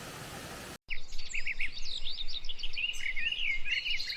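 A steady rush of falling water for under a second, cut off suddenly. Then birds chirping busily, many quick rising and falling notes in rapid succession.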